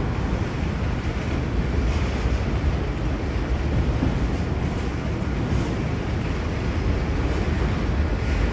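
Freight train of autorack cars rolling steadily past, a continuous low rumble of wheels on rail.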